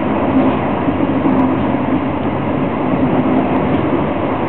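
SBB Intercity train running at speed, heard from inside the coach: a steady noise of wheels on rails with a faint low hum.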